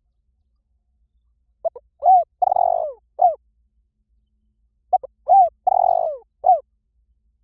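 Spotted dove cooing, used as a lure call: two phrases about three seconds apart, each a quick double note, an arched coo, a longer rolling coo and a short final coo.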